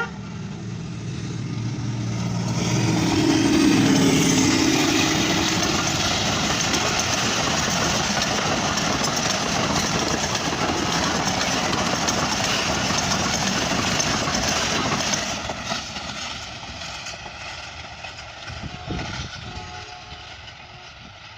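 A diesel-hauled passenger train passing at speed. The locomotive's engine grows louder over the first few seconds, then the coaches roll by with steady wheel-and-track noise that fades away over the last several seconds.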